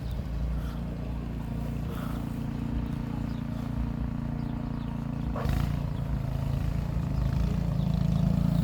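An engine running steadily with a low hum; its note changes about five seconds in and it grows louder near the end.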